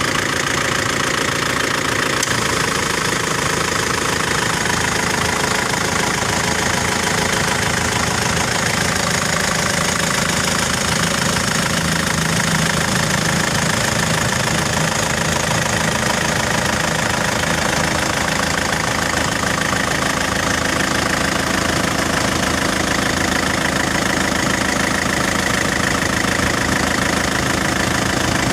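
Nissan Terrano's turbo engine running steadily at an even level.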